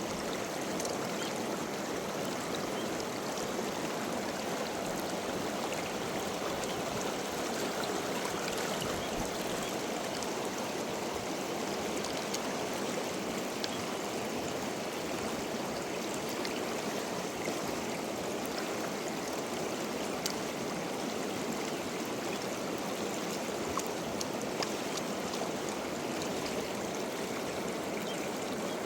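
River water flowing steadily, with a few faint ticks over it.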